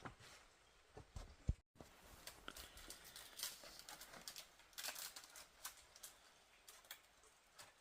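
Faint, scattered clicks and crinkly rustles of small handling or movement, with a brief dropout a little under two seconds in.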